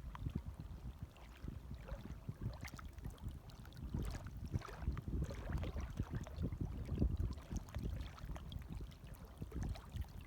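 Small, gentle waves lapping and splashing in an irregular patter.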